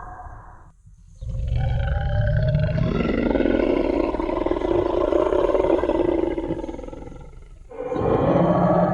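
Dinosaur (T. rex) roar sound effect: a deep growl starts about a second in and swells into a long rumbling roar that fades out, and a second roar begins just before the end.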